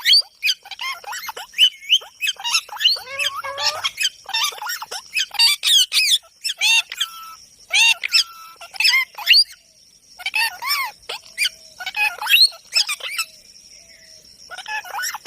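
A parrot calling: rapid, repeated squawks and chirps in quick runs, with short pauses between the runs.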